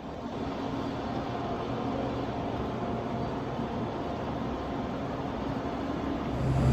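Steady cabin rumble of an Airbus A321neo with its engines running, heard from inside the cabin. A louder low hum comes in near the end.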